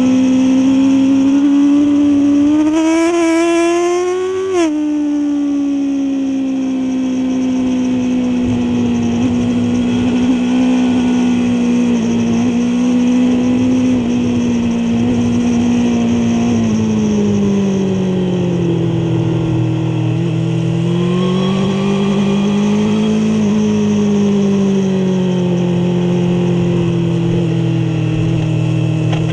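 Suzuki GSX-R750 K5's inline-four engine under load on track, recorded on board the bike. The revs climb for the first four seconds or so, then drop sharply. They hold steady for a long stretch, sag and pick up again about two-thirds of the way through, then settle.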